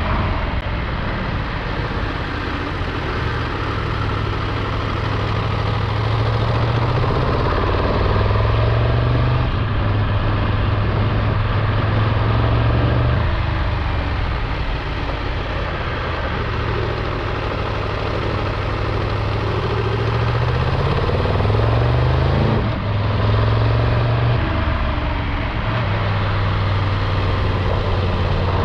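Triumph Tiger 1200's three-cylinder engine running under way, with wind noise. Its pitch climbs under acceleration and drops back at a gear change about 8 seconds in, and again about 21 seconds in.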